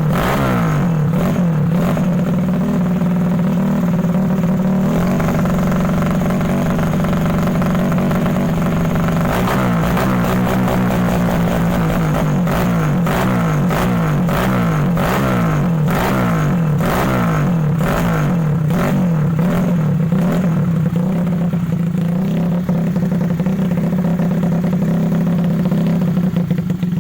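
Yamaha Mio scooter engine bored up to 150 cc, running through an aftermarket CLD exhaust and being revved over and over, its pitch rising and falling about once a second.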